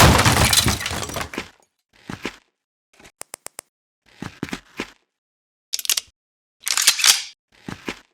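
A loud crash, like something breaking, that dies away over about a second and a half. It is followed by a quick run of about five sharp clicks and several short noisy bursts with silence in between.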